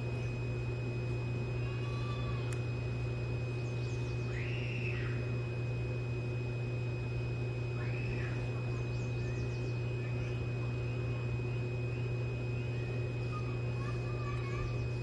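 Birds calling: a few short, arching whistled notes several seconds apart, over a steady low hum.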